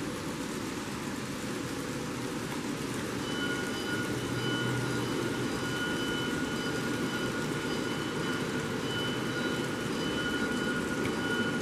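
N-scale model trains running on a layout: a steady whirring hum, joined about three seconds in by a thin, high, steady whine that holds.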